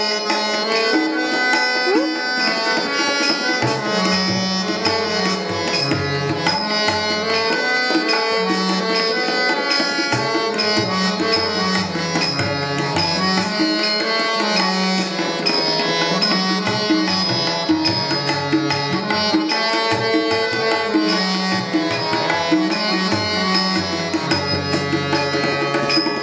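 Instrumental interlude of a Hindi Krishna bhajan: sustained melody lines over a moving bass, with tabla-style percussion keeping a steady beat.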